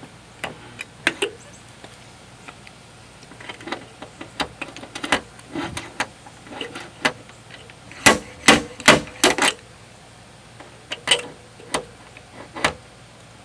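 Sharp metal knocks from dent-pulling tools working a steel tailgate: scattered lighter clicks first, then a quick run of about five loud knocks past the middle and three more spaced out near the end.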